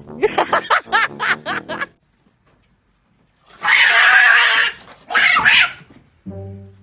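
An animal calling with a wavering, bending pitch, then after a short pause two loud, noisy hisses. Music with bowed strings comes in near the end.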